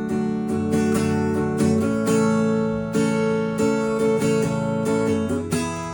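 Acoustic guitar strumming chords with no singing, the instrumental close of a song; the chord changes about five seconds in.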